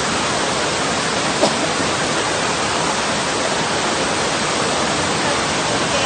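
Floodwater from a torrential mountain downpour rushing steadily, with a single short knock about one and a half seconds in.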